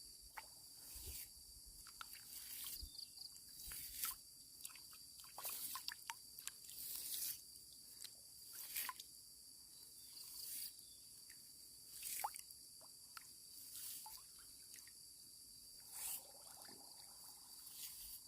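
Steady high-pitched insect chorus, with soft brief sounds every second or two.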